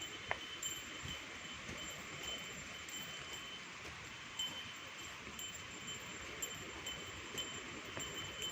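Insects droning steadily in the vegetation: an even high hiss with a thin, steady high-pitched whine over it.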